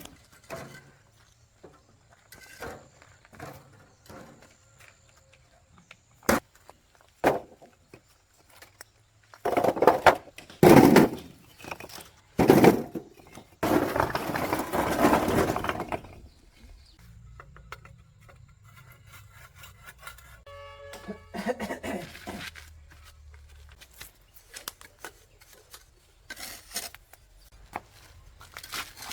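Intermittent clatter and knocks of objects being handled, with a few loud stretches of scraping or rustling noise in the middle.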